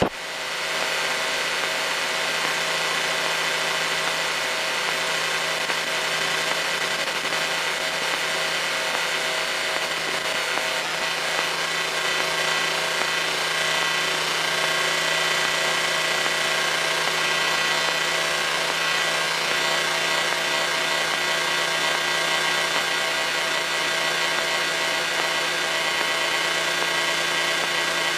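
Cessna 152's four-cylinder Lycoming O-235 engine and propeller running at a steady speed, a constant drone with several held tones.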